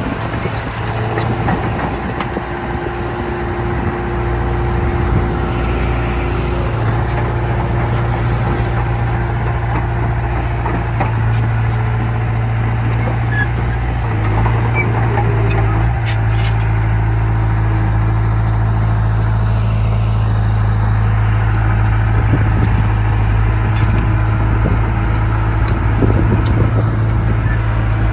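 Heavy diesel engine of earthmoving machinery running steadily, its pitch shifting slightly about halfway, with a couple of sharp knocks.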